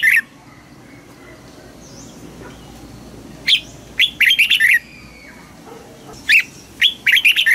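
Red-whiskered bulbul singing: short, loud phrases of quick whistled notes, one about three and a half seconds in and another near the end, each a single note followed by a rapid run of notes.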